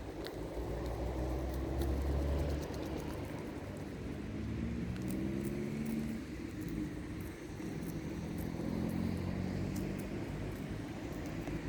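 A motor vehicle's engine running, its pitch rising and falling a few times.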